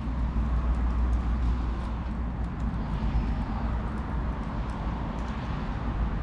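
Bonfire burning, with small scattered crackles and pops over a steady low rumble.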